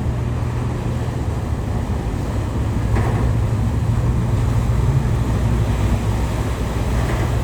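Car ferry Furutaka under way: its engine drones steadily with a constant low hum, mixed with rushing water and wind noise on the microphone.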